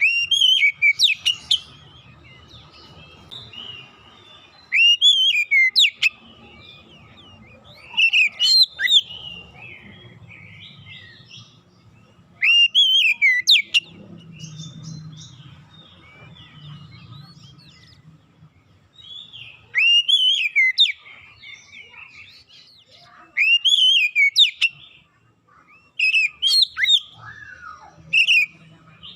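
Oriental magpie-robin (kacer) singing: about eight loud phrases of sweeping, up-and-down whistles a few seconds apart, with softer warbling between them.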